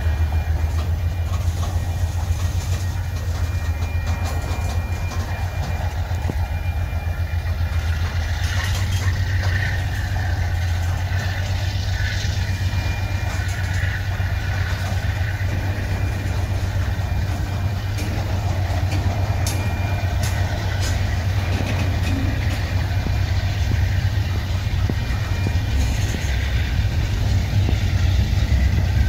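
Freight train cars (tank cars and covered hoppers) rolling past close by: a steady heavy rumble of steel wheels on rail, with scattered wheel clicks and a faint thin high squeal.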